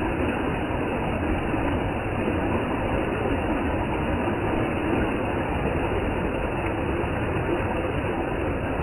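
Waterfall's steady roar of falling water: an even rushing noise with no let-up.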